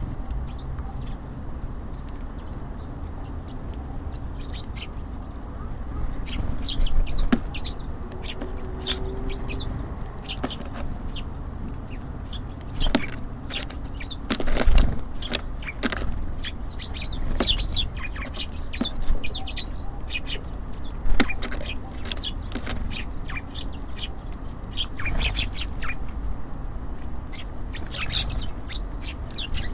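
Small songbirds at a feeder chirping in many short, high calls, with wing flutters. A few louder knocks come around the middle and again later, over a steady low city rumble.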